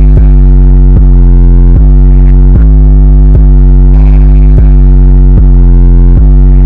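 Loud, bass-heavy electronic music: a deep droning bass under a distorted synthesizer line, with a new note struck about every 0.8 seconds.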